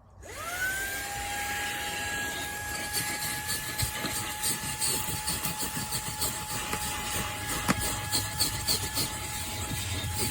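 Fanttik Slim V8 Apex cordless handheld vacuum switched on: its motor spins up within a fraction of a second to a steady high whine over a rush of air, with scattered clicks later on.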